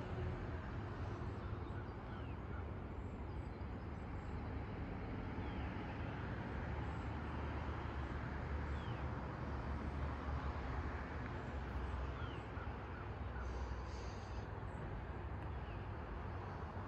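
Steady outdoor background of hiss and low rumble, with a bird giving a short falling chirp about every two seconds.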